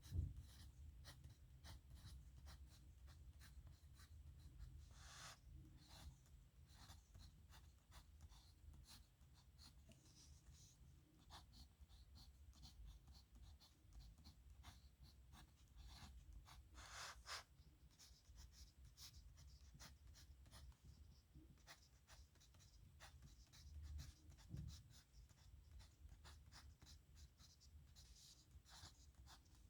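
Faint scratching of a metal dip-pen nib on paper, in many quick short strokes as a signature is written. A soft low thump comes right at the start.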